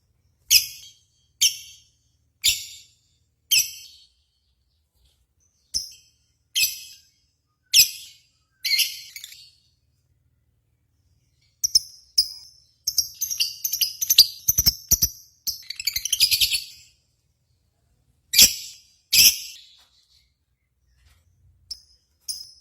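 Lovebird calls: sharp, high-pitched single chirps about once a second, then a dense run of rapid chattering chirps in the middle, and two more loud calls near the end, with dead silence between the calls.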